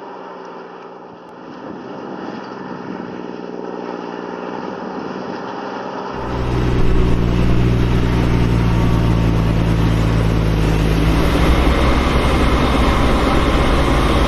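Large tractor diesel engine running, from the Claas Xerion 3800 with its turbocharged six-cylinder Caterpillar diesel. About six seconds in the engine becomes much louder and deeper, running hard.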